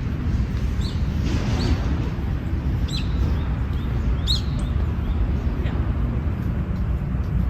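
Small birds giving a few short, high chirps over a steady low rumble of wind buffeting the microphone.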